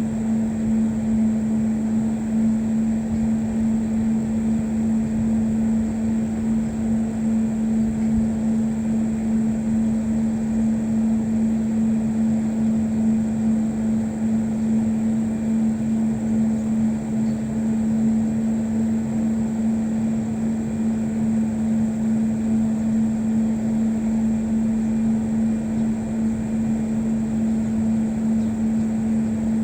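Steady mechanical drone with one constant low hum, unchanging throughout, like an engine or motor running at a fixed speed.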